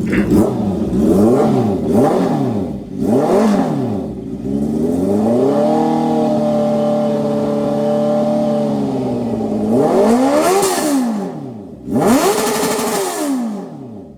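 Motorcycle engine with a full aftermarket exhaust system being free-revved while standing: four quick blips, then a rev held steady for about three seconds, then two more quick blips.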